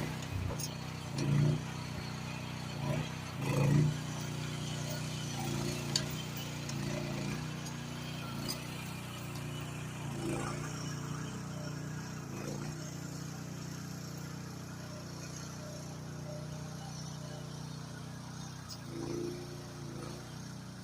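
GroundHog KH14G mini excavator's engine running steadily, swelling briefly several times as the machine works, with a few sharp clicks about six and eight seconds in.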